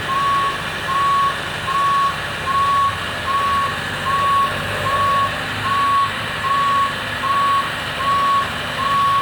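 Boom lift's motion alarm beeping steadily, one short tone a little more than once a second, as the lift is driven and its boom moved. Underneath, the lift's engine runs with a low hum.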